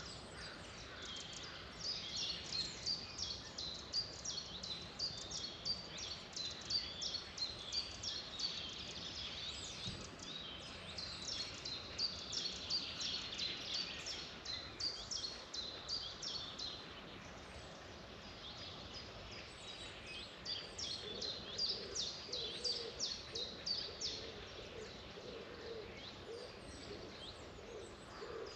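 Wild songbirds singing in long runs of rapid, high, downward-sweeping chirps, several a second, over a steady outdoor background hiss. There is a short lull about two-thirds of the way through, and lower repeated notes join in near the end.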